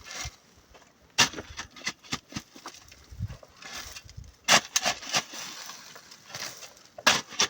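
Irregular sharp knocks and clicks, the loudest three about a second in, in the middle and near the end.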